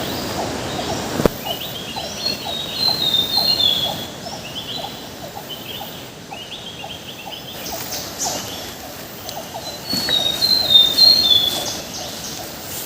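Forest bird calling in two bursts of quick, stepped falling notes, over a steady rhythmic ticking of forest insects or frogs about three times a second. A single sharp knock sounds about a second in.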